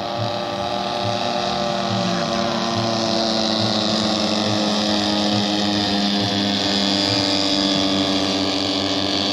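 Engines of radio-control model airplanes running in flight, a steady buzzing drone that grows slightly louder.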